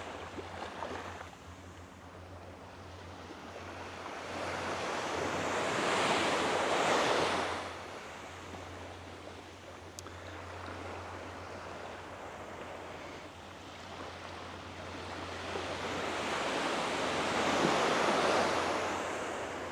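Waves washing up on a beach: two swells of surf noise about ten seconds apart, each building over a few seconds and then fading away.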